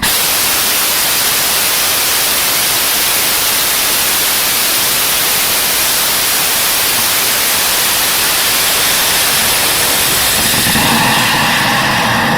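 Home-built HOM-900 hybrid rocket engine burning on a static test stand: a loud, even roar of noise that holds steady throughout. A few steady tones come into the roar about ten seconds in.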